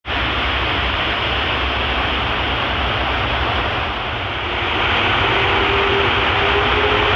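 Airbus A380's four turbofan engines running on the ground, a loud, steady roar over a deep rumble. It grows a little louder about two-thirds of the way in, where a faint steady whine joins.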